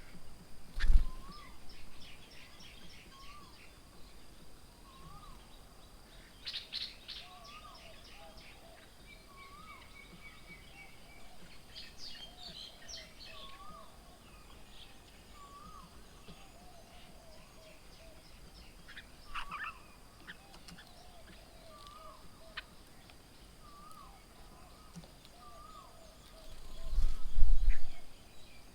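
Birds calling around a bird table: a short hooked note repeated about once a second, with lower notes and a few bursts of chirping. A brief low thump about a second in, and a louder low rumble near the end.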